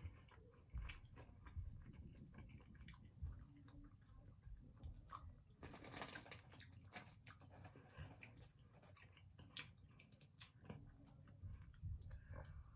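Close-up chewing and biting: a person eating barbecue chicken wings, with wet mouth clicks and smacks at an irregular pace.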